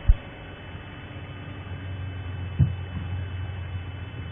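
Safari game-drive vehicle's engine running steadily under a hiss of broadcast noise, with two low thumps, one at the start and one a little past halfway.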